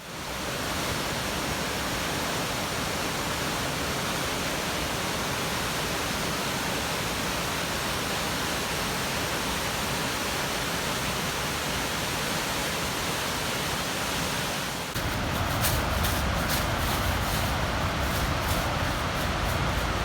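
Waterfall: the steady rush of Corra Linn, a large falls on the River Clyde. About fifteen seconds in it gets louder and deeper.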